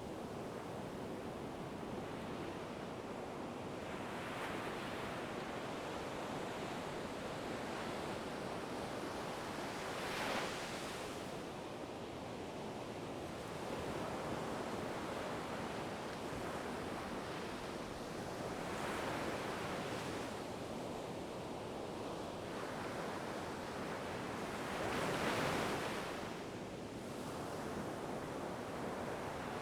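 Ocean waves washing onto a shore over a steady hiss of surf, with a wave swelling up and breaking every several seconds, the loudest one near the end.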